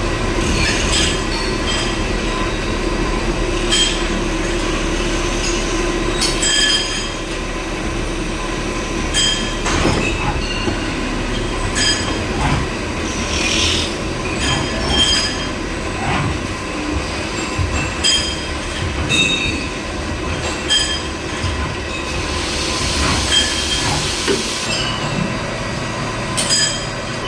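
CNC lathe threading a part on the outside and inside diameter: steady running with a metallic squeal, short ringing strokes every second or two as the tool works, and spells of hiss in the middle and near the end.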